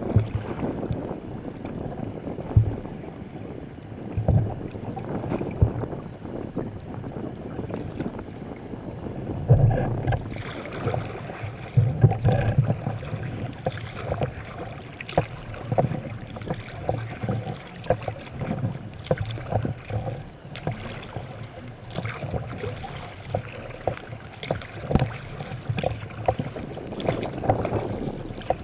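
Sea kayak being paddled through light chop: water washing and slapping against the hull, with a splashy surge every second or two, and wind buffeting the microphone.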